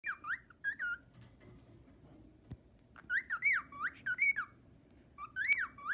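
Pet bird whistling: short notes that swoop up and down in pitch, in three quick bursts, at the start, in the middle and near the end.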